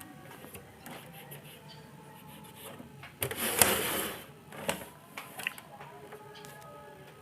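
Handling noise on a workbench: a loud scraping, rustling burst lasting about a second, about three seconds in, followed by a few sharp clicks.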